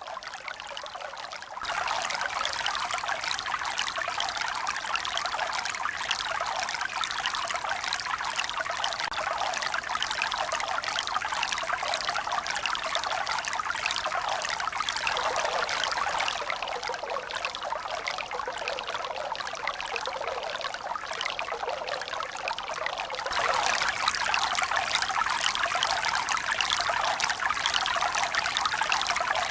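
Steady rush of running, splashing water, bright and with little deep rumble and no rise and fall of breaking waves. It jumps suddenly louder about two seconds in, and again about three-quarters of the way through.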